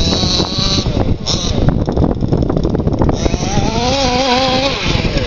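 FG Marder Beetle RC buggy's modified 29cc two-stroke engine with tuned pipe, running and revving up and down as the car drives. It holds a steady high-rpm note for over a second a little past halfway.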